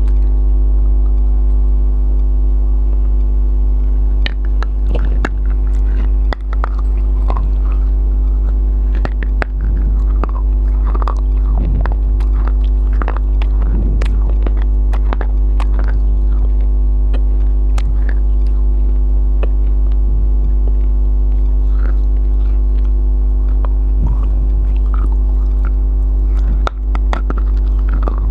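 Close-miked chewing of a mouthful of biryani, with scattered wet clicks and mouth sounds, over a loud steady electrical hum that is the loudest thing throughout.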